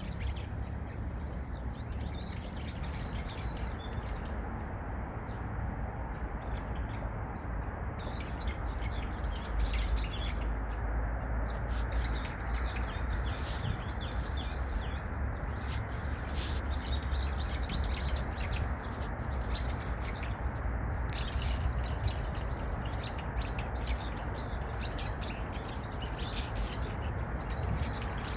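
Birds chirping and twittering busily, many quick high chirps overlapping and growing denser after the first few seconds, over a steady low rumble.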